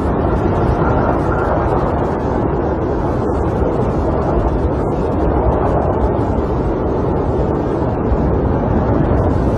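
Snowstorm wind blowing against a camper, heard from inside: a steady, dense rushing noise, deep and full at the low end.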